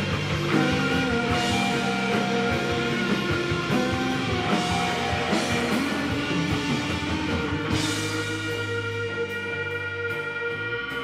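Live rock band playing. About eight seconds in the drum hits thin out and held chords ring on, slowly getting quieter.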